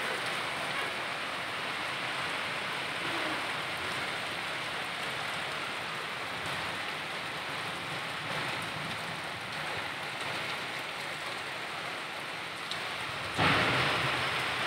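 Heavy rain falling steadily, an even hiss. Near the end a sudden louder burst with a low rumble comes in and then eases off.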